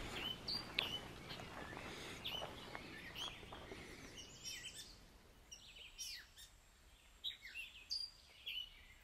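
Several songbirds chirping and singing, short high calls overlapping and repeating, growing fainter after about halfway.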